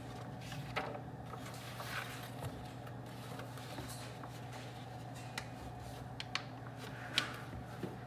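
Desk study ambience: a steady low room hum with a handful of light clicks and taps from someone working at a desk, the sharpest of them near the end.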